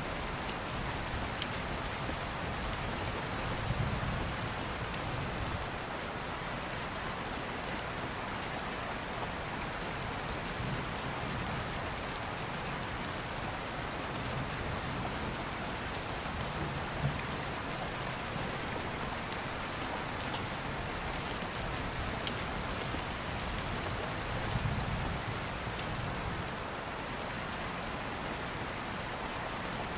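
Steady rain falling, with a low distant thunder rumble swelling twice, about four seconds in and again near the end. A few sharp ticks, typical of fire crackle, stand out.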